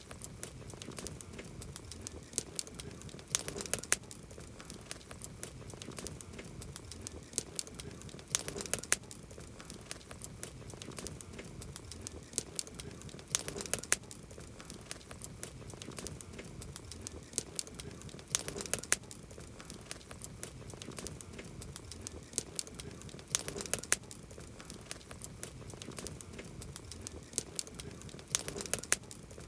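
Campfire crackling: sharp pops and snaps over a low hiss, with a cluster of louder pops about every five seconds.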